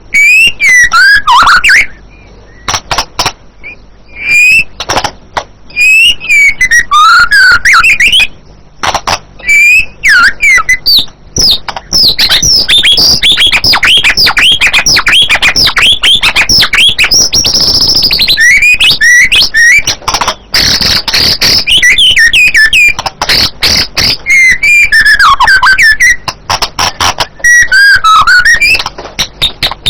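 White-rumped shama singing: loud whistled phrases with gliding notes and fast runs of rapid notes, broken by short pauses in the first ten seconds, then singing almost without a break until near the end.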